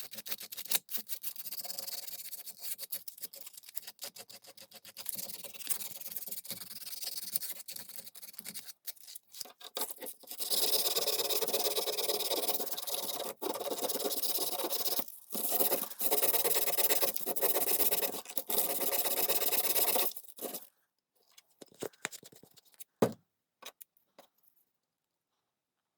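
Abrasive work on an old screwdriver during its restoration. First come quick, uneven rubbing strokes, then about ten seconds of louder, steadier scraping with a few short breaks. It stops about twenty seconds in, leaving a few light clicks and one sharp knock.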